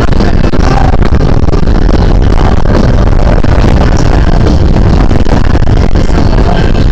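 Heavy, steady wind rumble on a body-worn camera's microphone while riding an e-bike.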